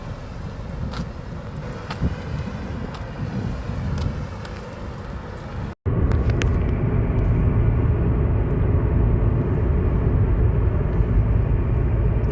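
A car on the move: a steady low rumble of road and engine noise that comes in louder after a sudden cut about six seconds in. Before the cut there is a thinner, hissier ambience with a few sharp clicks.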